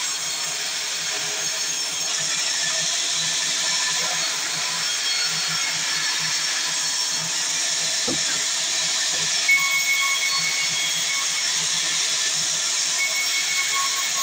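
Sawmill saw running steadily through wood with a continuous hissing noise, a faint intermittent whine, and one short knock about halfway through.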